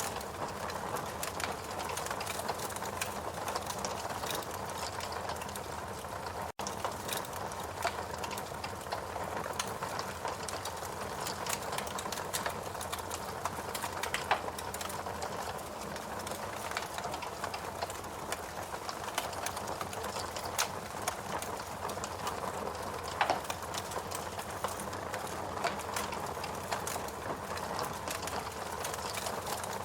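Wood fire burning in a fireplace: a steady low hiss and flutter of flames with scattered sharp crackles and pops from the logs. The sound drops out for an instant about six seconds in.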